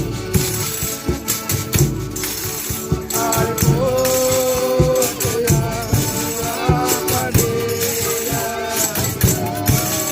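Folia de Reis music: voices singing over rhythmic shaken and struck percussion, with long held notes coming in about three seconds in.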